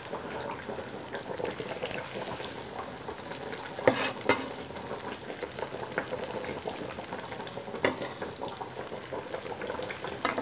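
Chopped tomatoes and onions frying in oil in a wok, a steady sizzle, with a wooden spoon stirring and a few sharp knocks against the pan, the loudest about four seconds in.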